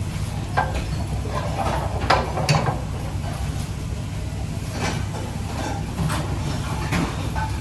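Kitchen utensils knocking and clinking against cookware, about six separate strikes, over a steady low hum.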